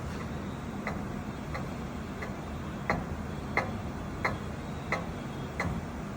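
Machining of the bearing-lock groove in an engine main bearing cap: sharp light ticks about every two-thirds of a second over a steady low machine hum.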